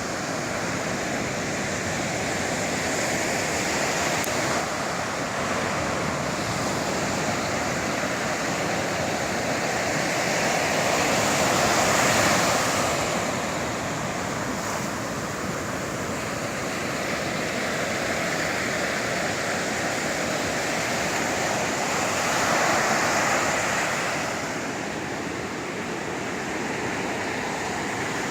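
Sea surf: waves breaking and washing on the shore in a continuous rush, swelling louder as bigger waves break, once a little before the middle and again about four-fifths of the way through.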